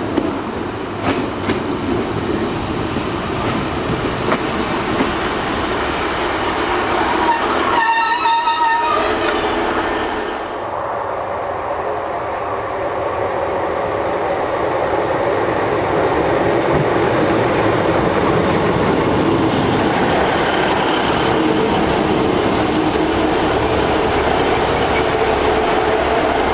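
Class 150 diesel multiple unit arriving. It sounds its horn once, briefly, about eight seconds in, then its diesel engines and wheels run steadily, growing louder.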